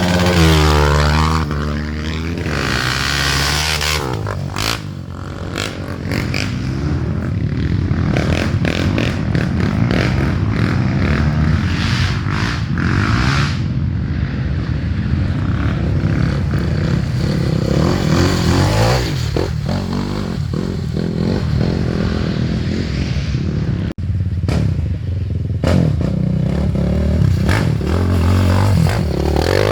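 Trail motorcycle engines running and revving, one sweeping past close by in the first couple of seconds with its pitch falling, and sharp clattering knocks throughout.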